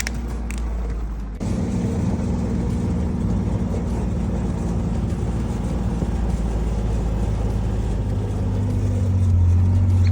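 An engine running steadily with a low hum. Its note shifts about a second and a half in, and it grows louder near the end before cutting off suddenly.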